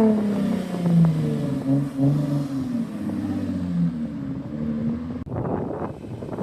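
Car engine running, its note falling at first and then wavering up and down. About five seconds in the sound changes abruptly to a rougher rushing noise.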